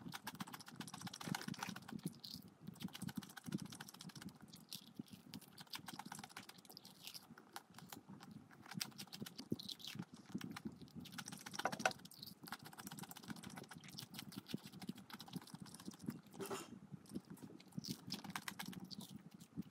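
Close-up chewing and crunching of crispy fried chicken, a dense, steady run of small crackling crunches.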